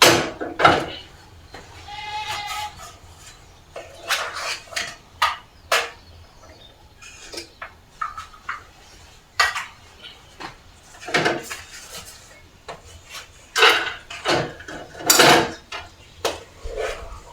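An animal bleats once, a wavering call about two seconds in, among repeated sharp clinks and knocks of dishes and cutlery.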